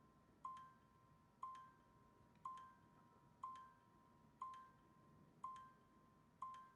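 A soft, bell-like electronic tone sounding once a second, seven times, each starting with a small click and ringing briefly before fading: a steady seconds-counting tick.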